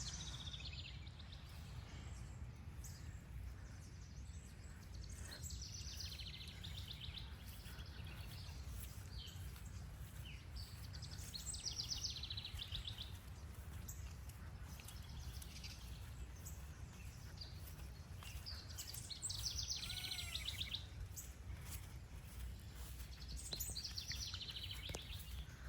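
Wild songbirds chirping and singing in short phrases every few seconds, over a steady low rumble.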